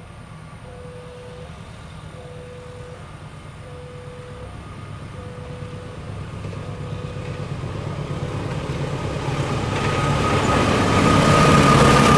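Railway level-crossing warning bell ringing one tone about every one and a half seconds as a train approaches, its rumble growing steadily louder and covering the bell toward the end.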